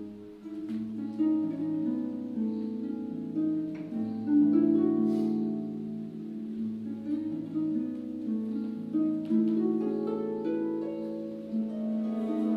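Harp and viola duet playing a dance movement: a stream of plucked harp notes with longer held notes beneath.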